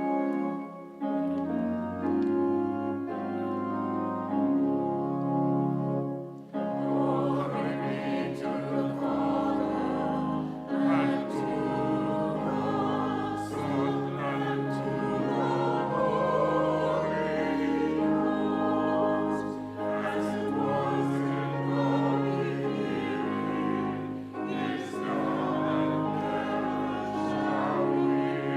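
Organ plays held chords as an introduction. About six seconds in, congregational and choir voices join, singing a hymn or sung response with organ accompaniment.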